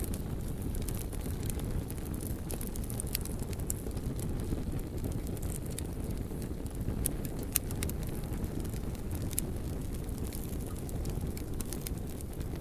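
Open fire burning, with a steady low rush and scattered sharp crackles and pops.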